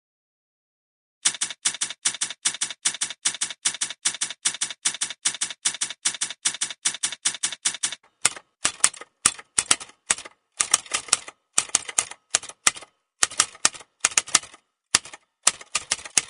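Typewriter keys clacking in a fast, even run of about four strokes a second. After about eight seconds the strokes become sparser and irregular.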